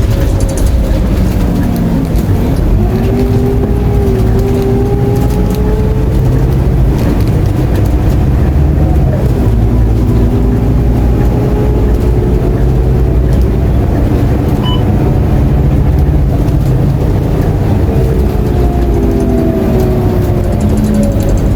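Interior sound of a Scania K230UB city bus under way: a steady low engine rumble, with engine and drivetrain tones that rise as it accelerates and drop at gear changes several times.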